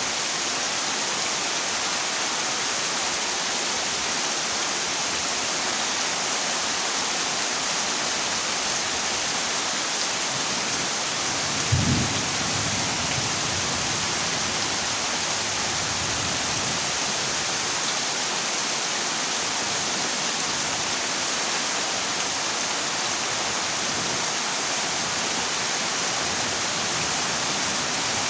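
Heavy rain falling steadily on a corrugated zinc roof, with one short clap of thunder about twelve seconds in.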